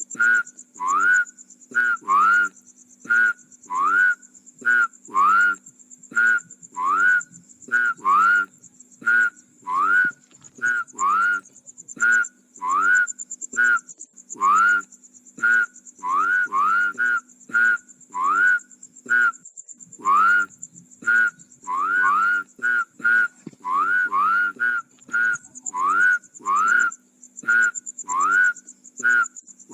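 Rice-field frogs calling over and over, each call a short rising whistle-like note, a little over one a second and often in quick pairs. A steady high-pitched buzz runs underneath.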